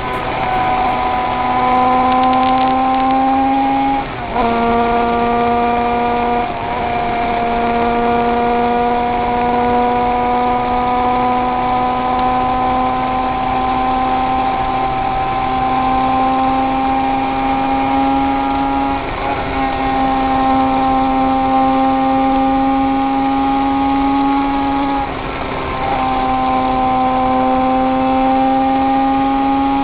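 König 500cc two-stroke flat-four racing motorcycle engine running under steady load, heard from on the bike, its pitch climbing slowly. It is broken by brief gear changes about four seconds in, around nineteen seconds and near twenty-five seconds.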